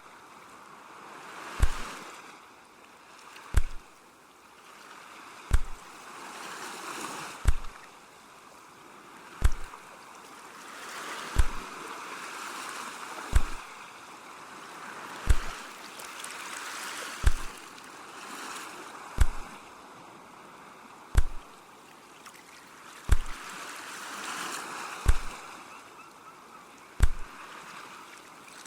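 Sea waves washing in and receding in slow swells. A short, sharp thump with a deep low end repeats at an even beat of about one every two seconds, louder than the waves.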